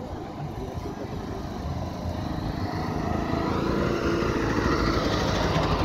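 Trabant's two-stroke, two-cylinder engine running as the small car drives slowly up, getting louder as it approaches.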